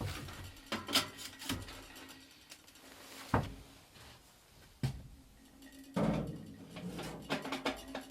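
Irregular knocks and clunks of objects being handled, several sharp ones scattered unevenly, with a heavier thud about six seconds in.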